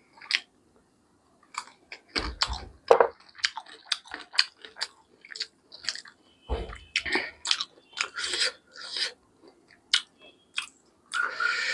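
Close-up eating sounds of a man chewing spicy chicken curry eaten by hand: irregular wet smacks, clicks and bites of the mouth and lips. A couple of dull low thumps come about two seconds in and again past six seconds, and a longer, noisier stretch comes near the end.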